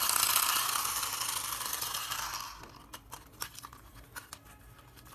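A steady hiss that fades out about two and a half seconds in, followed by scattered small clicks and rattles, like a plastic toy vehicle being handled.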